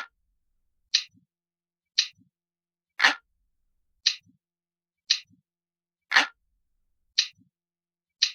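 Analog clock ticking, one tick about every second in a steady loop; every third tick sounds fuller and lower than the two before it.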